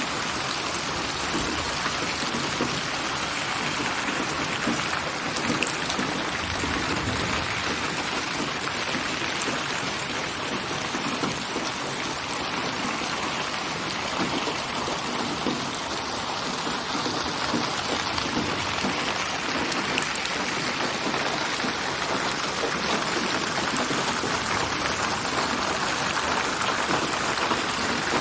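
Steady rain falling, a dense, even patter of drops that keeps on without let-up.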